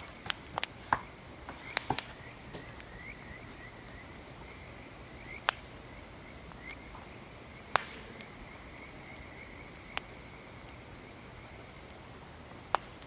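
Wood fire crackling, with scattered sharp pops at irregular gaps of a fraction of a second to a few seconds. A faint, high chirping repeats in the background, mostly in the first half.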